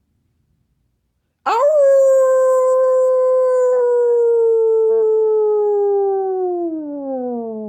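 A pet's single long howl, starting about a second and a half in: it rises quickly, holds a steady pitch, then slides slowly downward as it fades near the end.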